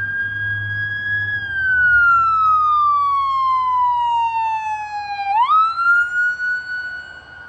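Emergency vehicle's electronic siren wailing, its pitch falling slowly for about four seconds, then sweeping quickly back up and holding, over a low engine rumble. It grows loud in the middle and fades near the end as the vehicle passes.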